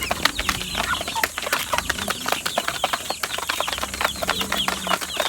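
Young Rhode Island Red chickens eating from the ground: many quick pecking taps going on throughout, with soft, short chirping calls.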